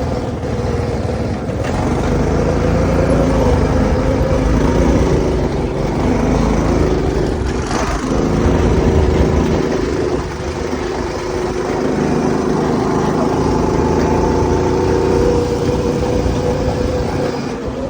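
Go-kart engine with a newly fitted 30 mm carburetor running hard, its pitch wavering up and down as the throttle changes, easing off briefly about ten seconds in.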